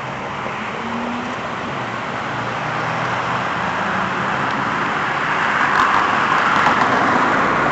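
Road traffic noise, a steady rush of passing cars that slowly grows louder as a vehicle draws near.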